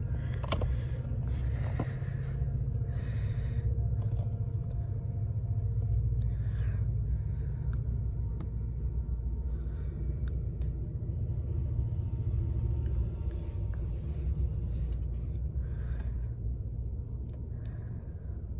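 Metra commuter train passing with a steady low rumble, with occasional sharp clicks.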